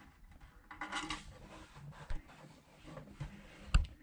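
Metal parts and tools being handled, with light clinks and rubbing, and one sharp metallic clack near the end.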